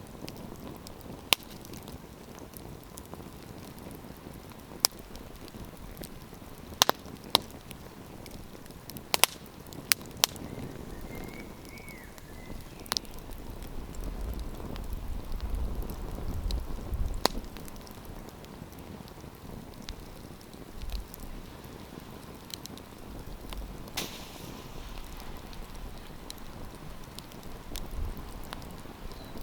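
Wood campfire crackling, with sharp irregular pops over a steady low hiss, most of the pops in the first half. A low rumble swells and fades around the middle.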